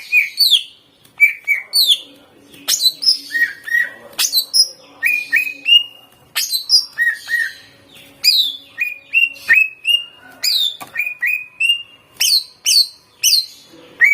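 Green leafbird (cucak ijo) singing a fast, loud run of short whistled phrases, many of them sharp falling sweeps, about two phrases a second. The song is a 'full isian' type, packed with mimicked phrases of other songbirds.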